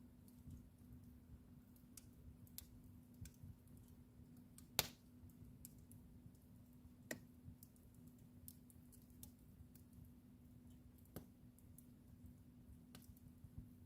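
Wood fire crackling in a fireplace: sparse, sharp pops and snaps at uneven intervals, the loudest about five seconds in, over a faint steady hum.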